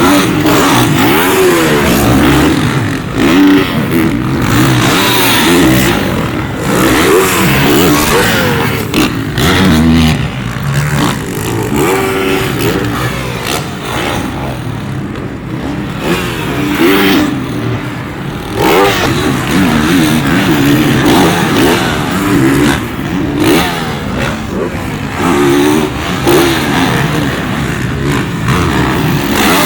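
Several Supercross dirt bikes revving hard on a practice track, engines climbing and dropping in pitch again and again as riders open and close the throttle, with overlapping bikes at times.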